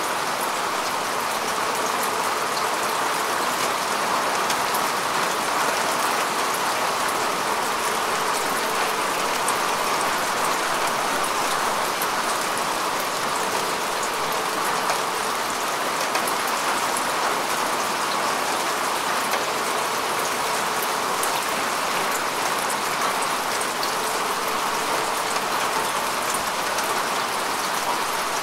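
Steady rain falling on grass and earth: an even hiss of rain with many fine drop ticks, unchanging throughout.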